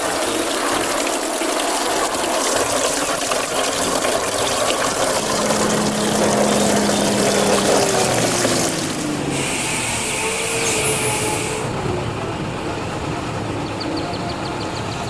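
Water spraying and splashing steadily in a toy car wash, with a brief separate hiss about nine seconds in that lasts under three seconds.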